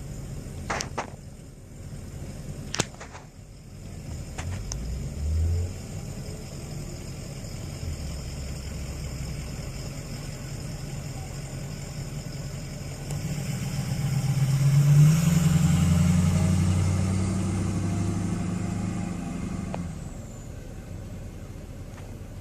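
Truck engine running steadily, with a few sharp clicks in the first three seconds. About thirteen seconds in it revs up and grows louder, holds, then eases back down near the end.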